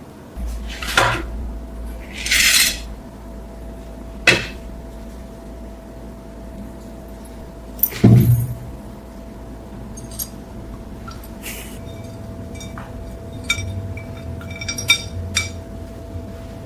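Scattered clinks, knocks and short scrapes of a steel knife being handled and set on a hard surface, with a heavier knock about halfway through and a run of small ticks near the end, over a steady low hum.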